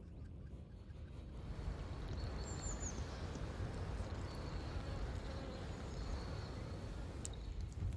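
Outdoor ambience: a steady low rumble like wind on the microphone, with a few short, high bird chirps about two to three seconds in.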